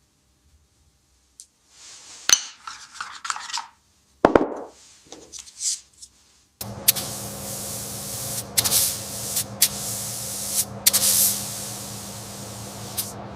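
Short rubbing and scraping handling noises with a sharp click and a knock. Then, about six and a half seconds in, an HVLP paint spray gun starts hissing steadily over a low hum, broken by a few brief stops.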